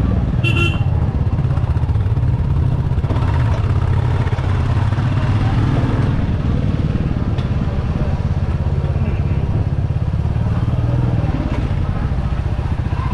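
Royal Enfield Classic 350's single-cylinder engine and exhaust running steadily under way on a ride. A brief high-pitched beep sounds about half a second in.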